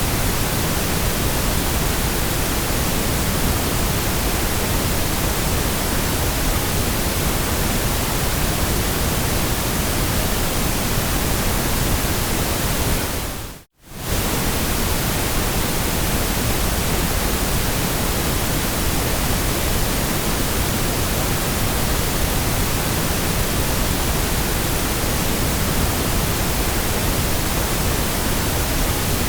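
Steady white noise, an even hiss across all pitches, which briefly fades to silence and straight back about fourteen seconds in.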